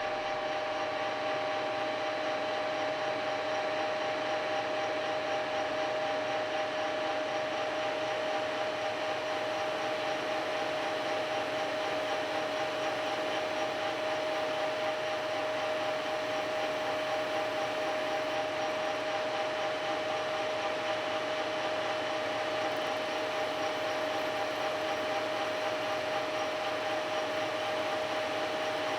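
A machine tool's electric motor and spindle running at a steady speed, giving an even whine with no change in pitch. It has just come up to speed.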